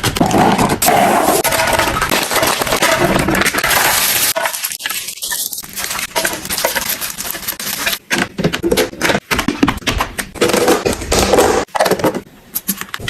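Glass and hard plastic containers clinking and knocking against each other and the shelves as they are packed into a fridge, a busy run of irregular clinks and taps.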